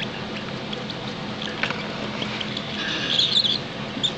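Cockatiel chicks making high, squeaky food-begging chirps while being hand-fed, with a quick cluster of chirps about three seconds in.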